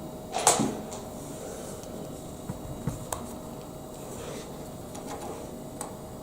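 Plastic Lego Technic pieces being handled while building: a short rustle about half a second in, then a few light clicks around three seconds, with fainter rustling after.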